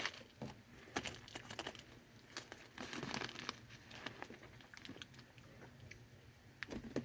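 Snack bar wrapper crinkling in irregular small crackles as pieces of a crushed nut crunch bar are handled, with some faint crunching.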